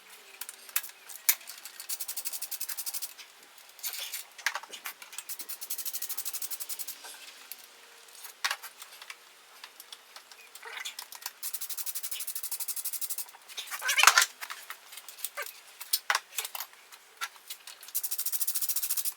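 Ratchet wrench clicking rapidly in runs of one to two seconds, four times, as the intake manifold bolts are loosened, with metal tool clinks and knocks in between; the loudest knock comes about two-thirds of the way through.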